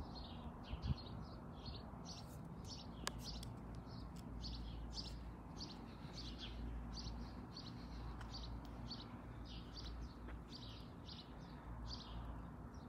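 A small bird chirping over and over, short high chirps two or three a second, faint, over a low steady background rumble.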